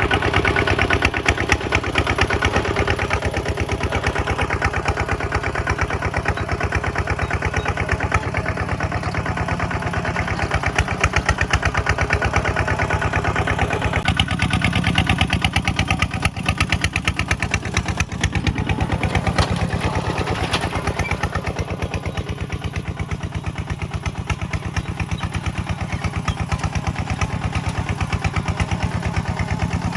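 Small Kubota single-cylinder diesel engine, of the kind on a two-wheel walking tractor, running steadily with an even rapid knocking beat; its tone shifts about halfway through.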